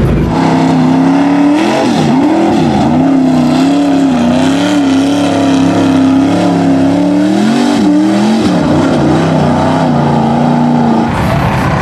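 Truck engine revving hard under load, its pitch wavering up and down and dropping sharply twice, about two and a half seconds in and again near eight seconds, before the engine sound cuts out near the end.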